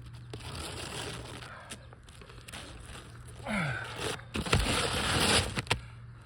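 Rustling and scraping of asphalt shingles being handled on the roof, with scattered clicks and a louder scrape lasting about a second near the end.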